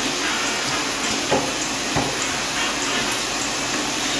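Steady rushing hiss of a running vacuum cleaner, with two short knocks about a second apart.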